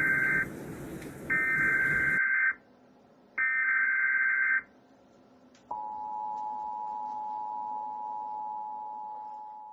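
NOAA weather radio emergency alert: short buzzing digital header bursts, then, about halfway through, the steady two-tone attention signal, which starts fading near the end.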